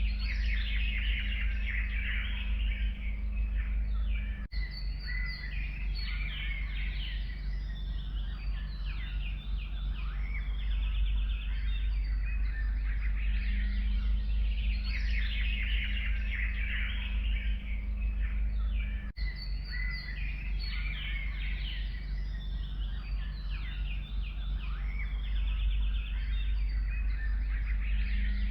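A chorus of forest birds singing and chirping, many overlapping calls and trills, over a steady low rumble. The sound drops out for a split second twice, about four seconds in and again past the middle.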